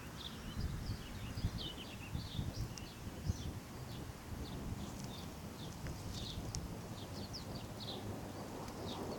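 Small birds chirping in many short, irregular calls over a low, uneven rumble that is stronger in the first few seconds.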